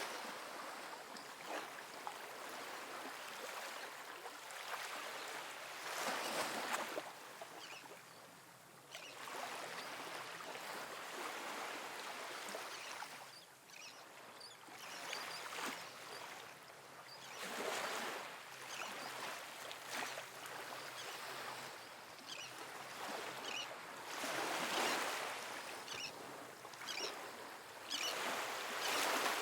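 Small, soft ocean waves breaking and washing up on a sandy beach, the surf swelling and fading every several seconds, with light crackles between surges.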